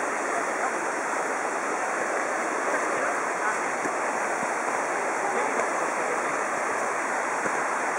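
A mountain stream rushing steadily.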